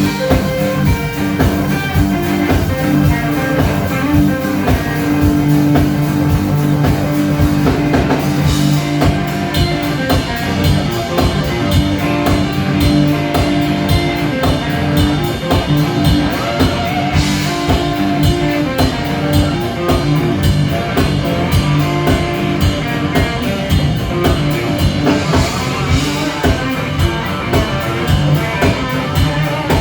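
Rock music on guitar and drum kit with a steady beat, without singing.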